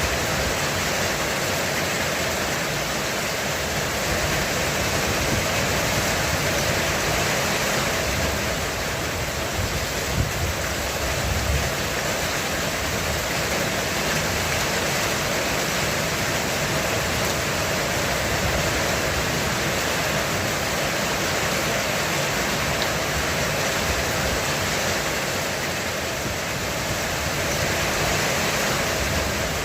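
Heavy rain falling steadily on a roof, a dense even hiss of drops.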